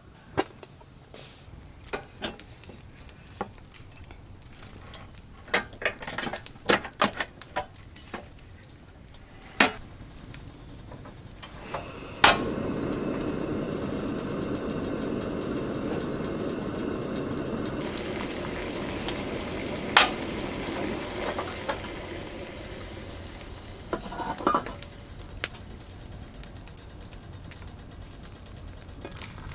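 Scattered clinks and taps of kitchenware. Then, about twelve seconds in, a steady sizzling hiss starts suddenly, as of food going into a hot pan, and dies down over the next ten seconds or so.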